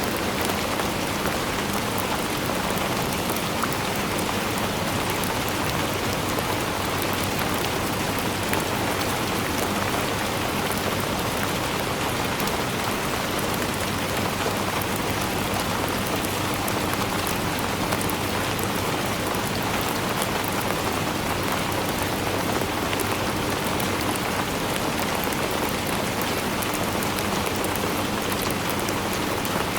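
Steady rainfall: an even hiss with a fine patter of many small drops.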